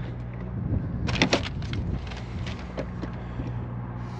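Sharp clicks and knocks of metal and plastic parts being handled and pushed into place while an auto-feed attachment is fitted to a K-400 drum drain-cleaning machine, with a cluster of several clicks a little over a second in. Under them runs a steady low mechanical hum.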